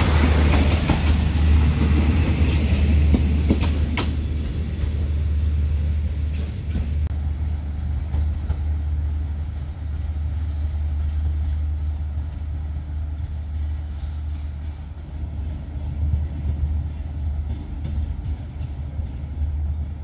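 Passenger train carriages rolling past on the rails with a few clacks, the sound dying away over the first several seconds as the train leaves; a steady low rumble remains after.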